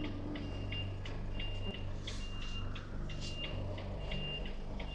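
Lorry's reversing alarm beeping steadily, about one beep a second, over the low hum of the truck's diesel engine as it backs up.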